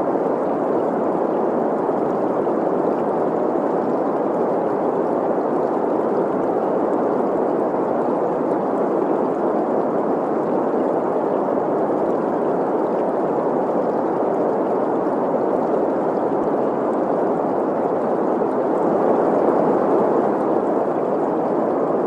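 Steady green noise, an even hiss centred in the middle of the pitch range, mixed with the rushing of a flowing stream.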